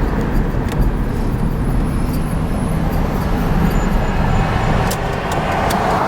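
Steady rumble of road vehicles in slow traffic, with a few faint clicks.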